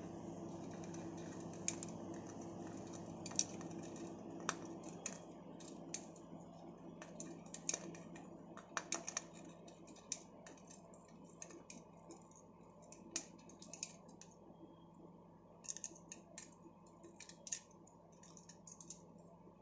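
Quaker parrots playing, making irregular light clicks and taps over a steady low hum.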